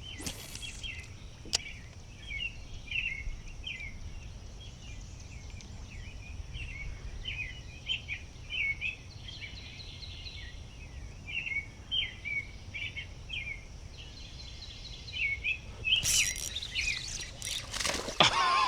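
Wild birds chirping and calling repeatedly, short notes one after another, over faint steady background noise. Near the end a burst of louder sharp knocks and rustling comes in.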